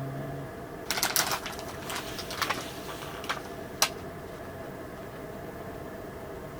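A quick run of sharp clicks and taps, then two more single clicks, the last one the sharpest, over a steady low hum.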